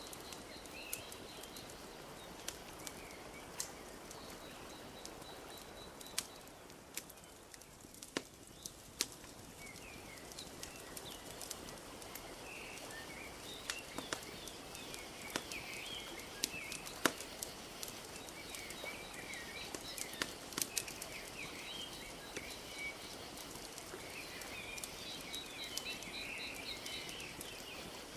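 Wood fire crackling with scattered sharp pops over a steady soft wash of lapping lake water. Small birds chirp and twitter, most of all in the second half.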